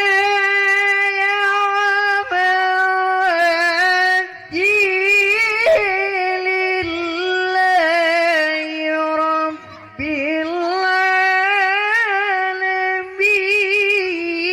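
Melodic Quran recitation: a single high voice chanting in long, ornamented held notes that waver and slide between pitches, with brief breath pauses about four seconds in and about ten seconds in.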